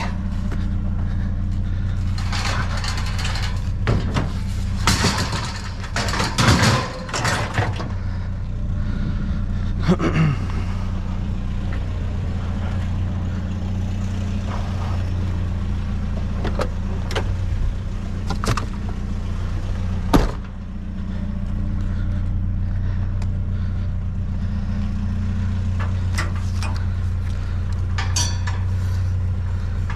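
A vehicle engine idling steadily, with scattered knocks and clanks of scrap being handled: a cluster in the first several seconds, then single sharp ones, the loudest about twenty seconds in.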